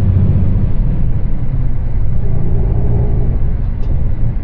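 Long-distance coach on the move, heard from inside the cabin: a steady, heavy low rumble of engine and road noise.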